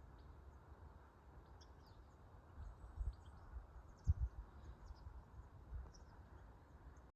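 Faint, scattered high bird chirps over a steady low rumble, with a couple of dull thumps about three and four seconds in.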